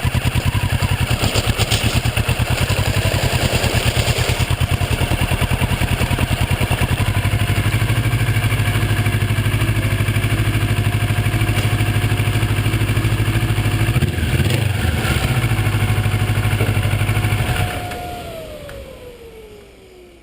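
Kawasaki Ninja 650R's parallel-twin engine running steadily with a rapid, even pulse. Near the end the sound fades and drops in pitch.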